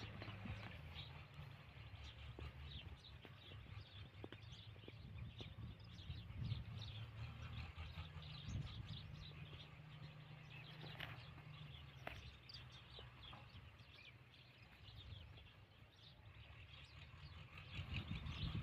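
Birds chirping faintly and often, over a low steady hum.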